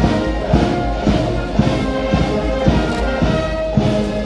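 Marching band playing a march: sustained brass-like tones over a steady drum beat of about two beats a second.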